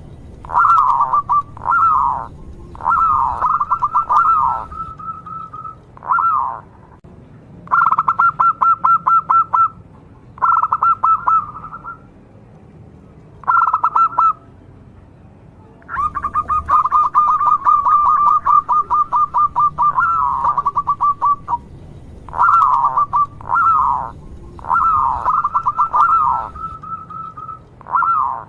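A local zebra dove (perkutut) cooing in a string of phrases, each made of quick staccato notes. The phrases last from about a second to several seconds, with short pauses between them.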